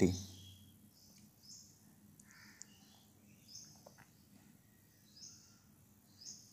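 Small birds chirping faintly in short high calls about once a second, over quiet background ambience, with a few faint clicks.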